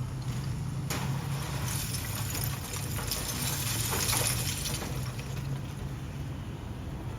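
Heavy dump truck's diesel engine running steadily, with a loud rushing hiss that starts suddenly about a second in and dies away after about four seconds.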